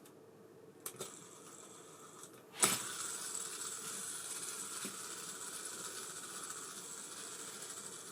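Abu Garcia Ambassadeur 5500C baitcasting reel: a couple of light clicks about a second in, then the spool is set spinning free with a sharp start and runs on with a steady whirring hiss that slowly fades.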